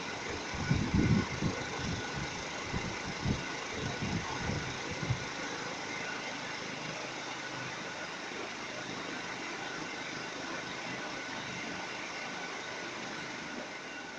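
Ventar Califórnia ceiling fan running steadily, a whirring hum with a faint whine in it. Irregular low thumps in the first five seconds, then an even sound.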